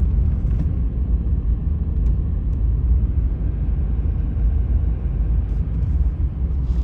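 Steady low rumble of a truck driving on the highway, heard from inside the cab: road and engine noise.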